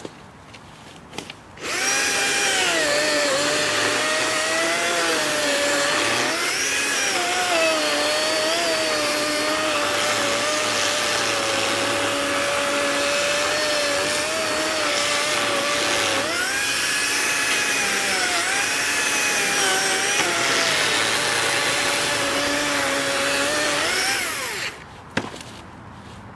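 DeWalt cordless electric chainsaw running and cutting wood, starting about two seconds in and stopping near the end. Its steady motor tone sags in pitch several times as the chain loads up in the cut, then recovers.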